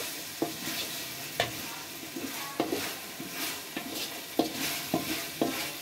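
Diced potatoes, carrots and onions sizzling in oil in a metal pot while a wooden spatula stirs them, with scattered scrapes and light knocks of the spatula against the pot.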